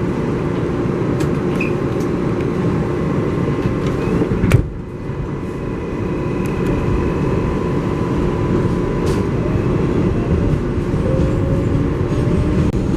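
Interior ride noise of an R188 subway car on the 7 train running between stations: a steady rumble of wheels on rail with a faint whine. About four and a half seconds in comes one sharp bang, followed by a brief dip in the noise.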